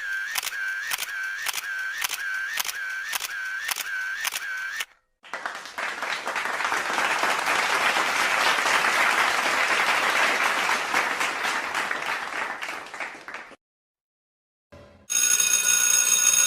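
A string of separate sound effects. First comes a short pitched chirp repeated about twice a second for some five seconds. Then about eight seconds of applause-like clapping, and near the end a bright ringing, bell-like tone.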